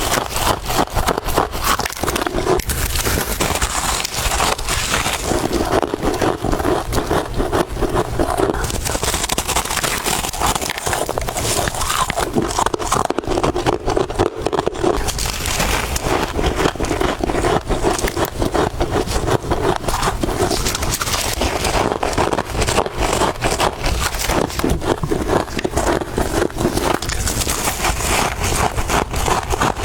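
Close-miked crunching of soft, fresh freezer frost being bitten and chewed: a dense, continuous run of crackling crunches.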